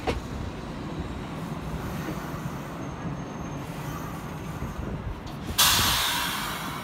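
Kintetsu electric inspection car 'Hakaru-kun' rolling slowly past at close range as it pulls in to stop, with a steady low rumble from its running gear. About five and a half seconds in, a sudden loud hiss of air from its brakes, fading away over about a second.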